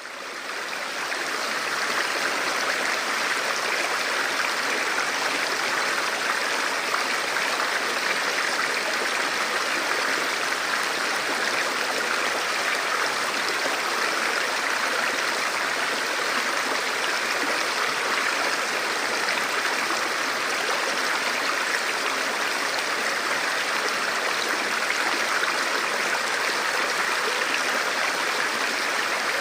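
Forest river or stream flowing over rocks, a steady rushing of water that fades in at the start.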